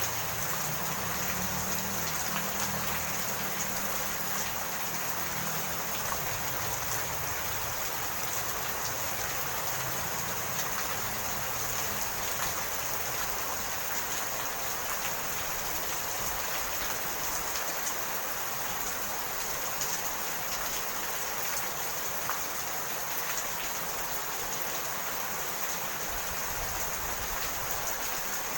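Steady rain, with scattered drop ticks. A low rumble under it fades out over the first few seconds.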